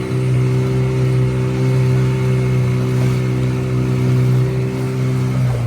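Motorboat engine running at a steady speed, an even drone holding its pitch, with a brief dip near the end.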